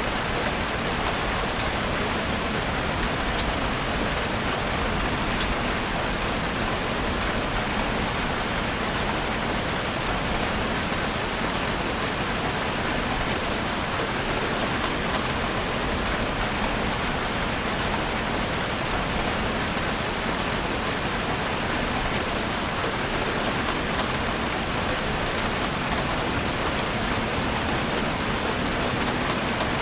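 Heavy rain drumming steadily on a roof, a dense, even hiss with fine drop ticks throughout.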